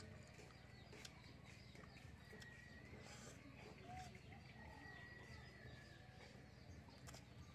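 Near silence: a faint outdoor background with a distant bird calling now and then, and a few faint clicks.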